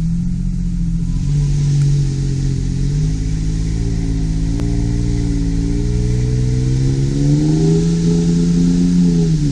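Off-road vehicle's engine pulling under load, its pitch climbing steadily from about four seconds in and dropping suddenly near the end as the throttle comes off, over a steady hiss.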